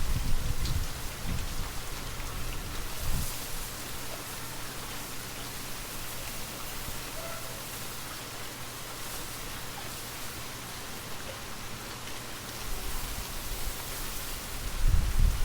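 Steady light rain falling, an even hiss of drops. Gusts of wind swell low in the first second or so, briefly around three seconds in, and again near the end.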